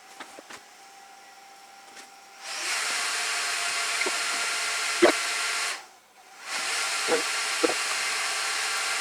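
Loud, steady hiss of rushing air in two long bursts, broken by a short pause just after the middle. A few light knocks sound during it.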